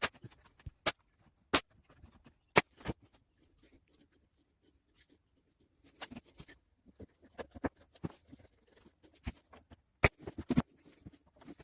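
Irregular sharp taps and knocks, a dozen or so, with a quiet stretch in the middle: wooden pieces of a pine assembly being handled and tapped together.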